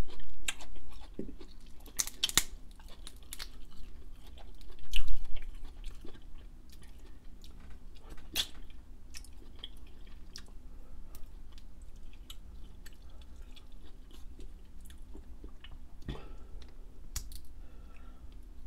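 Close-up chewing and eating sounds, with scattered sharp clicks and cracks of shellfish shell being picked apart by hand. The loudest cracks come in the first few seconds, and a couple more come near the end.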